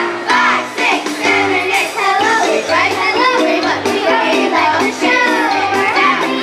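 Children's chorus singing a song over accompaniment with a steady bass beat.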